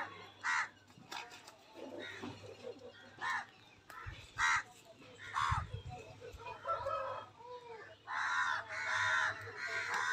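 Birds calling: a few short, harsh calls spaced a second or more apart, then a longer run of calling about eight seconds in.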